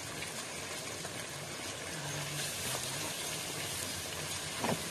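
Tomato-and-onion gravy sizzling and simmering in a large metal kadai, a steady hiss, with the ladle knocking against the pan a couple of times near the end.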